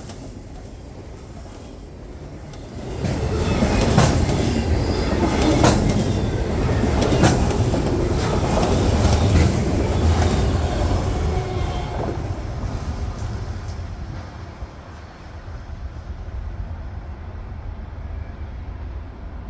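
Norfolk Southern freight train rolling past, wheels clacking over the rail joints. It gets louder about three seconds in and eases off after about twelve seconds.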